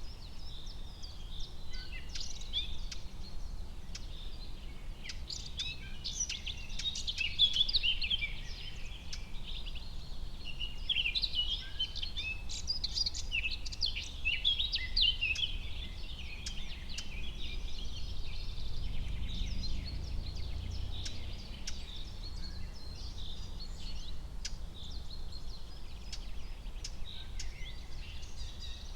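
Forest ambience: many small birds chirping and trilling, busiest in the first half and again near the end, over a steady low rumble, with scattered sharp ticks.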